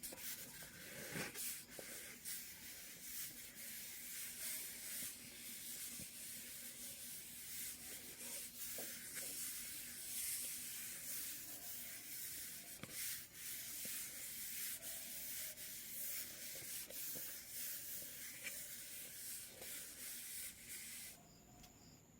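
Quick sketching strokes on paper: a steady run of short scratchy rubs from a drawing tool, stopping about a second before the end.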